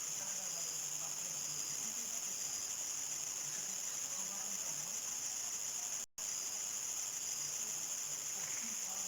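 Crickets trilling in a continuous shrill chorus at dusk. The sound cuts out for an instant about six seconds in.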